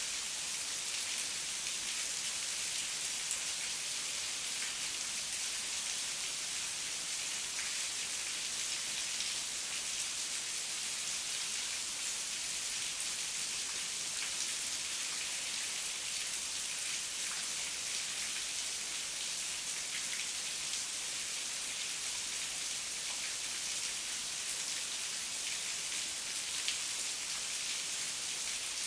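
Heavy rain falling steadily: an even hiss with scattered sharp ticks of individual drops.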